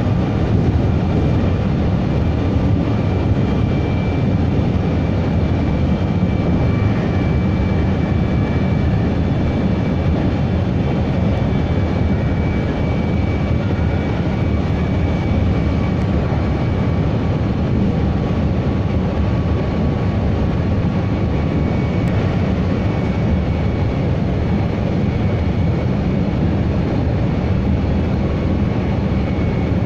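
Meitetsu 3150 series electric train running steadily, heard from inside the car: a continuous low rumble of wheels on rail with a faint high whine.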